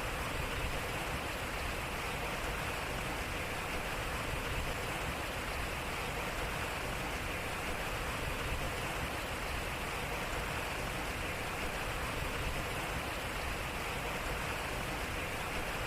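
Water running and splashing steadily off a turning water wheel: an even, unbroken rush.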